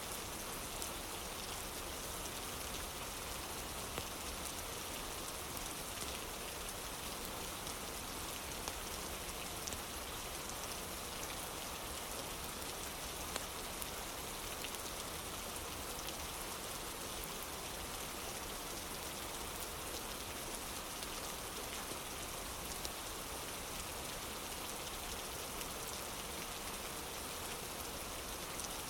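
Steady rain, falling evenly without let-up, with faint small ticks scattered through it.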